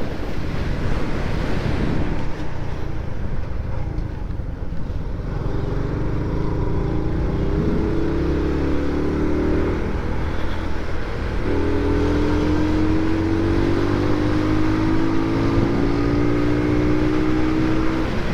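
Motorcycle engine pulling steadily under wind rush on the mic: its pitch rises for several seconds, drops back about ten seconds in as it shifts up a gear, then climbs again.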